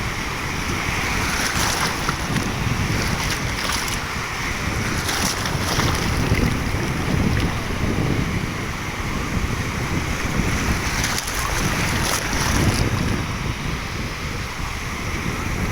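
Steady rush of wind and surf, with wind buffeting the microphone as a fluctuating low rumble and brief hissing surges every second or two.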